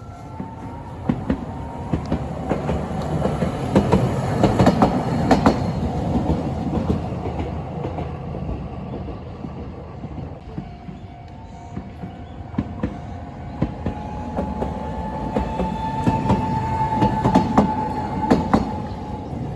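Electric train passing, its wheels clattering over the rail joints in clusters of sharp clacks, with a thin steady whine that rises slightly in the second half.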